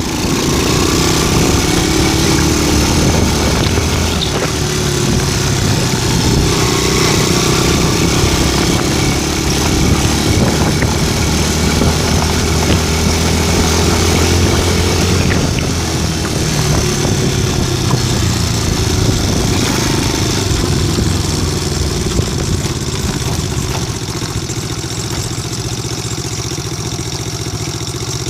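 A vehicle's exhaust with the engine running steadily near idle, its low note shifting slightly in pitch, and a little quieter over the last few seconds.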